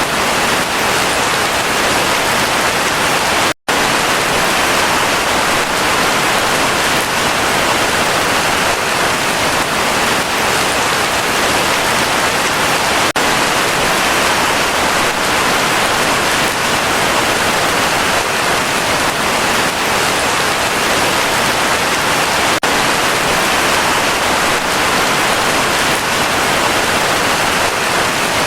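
Heavy rain falling in a steady, even downpour. The sound cuts out completely for a split second about three and a half seconds in, then carries on unchanged.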